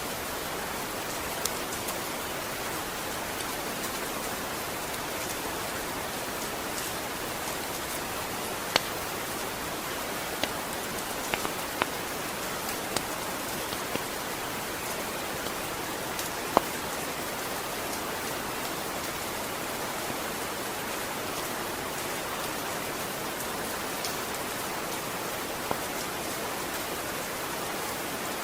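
Steady rain falling, an even hiss with scattered sharper drips and drops ticking here and there.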